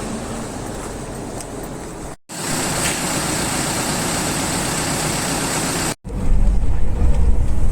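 Steady road and outdoor noise, then, after a cut about six seconds in, the louder low rumble of a hotel shuttle bus driving along.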